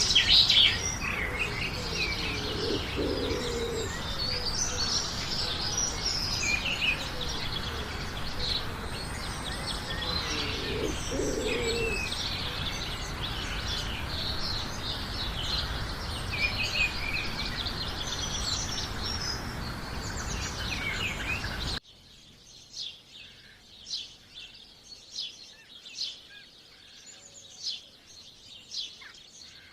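Many small birds chirping and twittering densely over a steady background hiss, with a few lower calls mixed in. About 22 seconds in it cuts abruptly to a quieter recording of sparse, sharp chirps.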